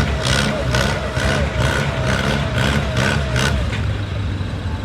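Antique tractor engine working hard under load while pulling the weight sled, with a steady low drone and a regular pulsing about twice a second that dies away shortly before the end.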